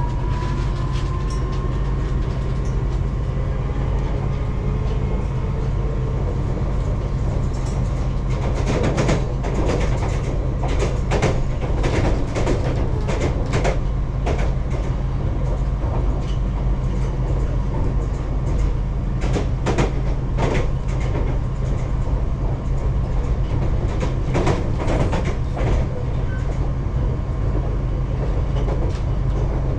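Metro train running through a tunnel, heard from inside the carriage: a steady low rumble with a rising motor whine in the first second or so. Repeated wheel clacks over the rails from about eight seconds in until a few seconds before the end.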